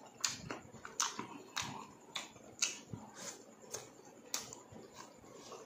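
Close-up chewing of crispy deep-fried pork intestines: a string of sharp crunches, about two a second.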